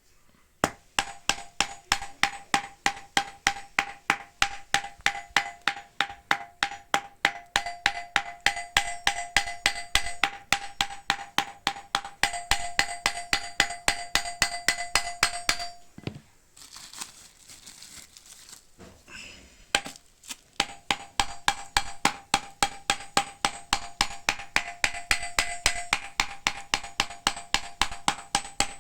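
Rapid, even hammer blows, about three a second and each with a short ringing tone, beating a stiff vintage linen fire hose to soften it. The hammering stops for a few seconds of rubbing and handling after about 16 seconds, then starts again.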